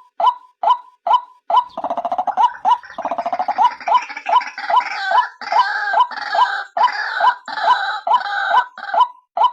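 White-breasted waterhen calls, the female call used as a trapping lure: a short, clipped note repeated about twice a second. From about two seconds in it is joined by a harsher, rattling and croaking chorus that stops near the end.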